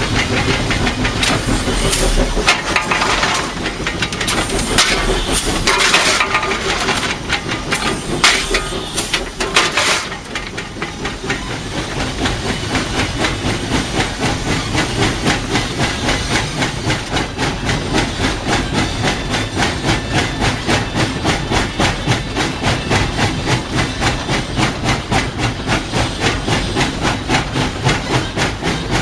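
Cab of ET&WNC No. 12, a 4-6-0 steam locomotive, underway: loud gusts of steam hiss for the first ten seconds or so. After that comes a steady, fast beat of exhaust chuffs with the rumble of the running gear under it.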